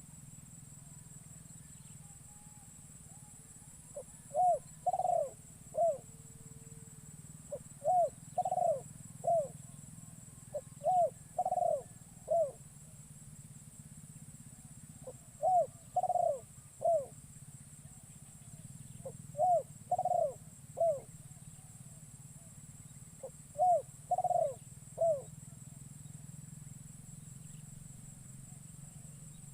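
Spotted dove (terkukur) cooing. It gives six phrases of three notes each, about one every four seconds, over a steady high drone.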